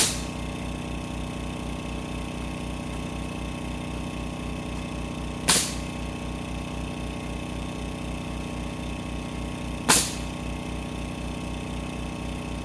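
Small engine running steadily, with three sharp, loud cracks about four to five seconds apart.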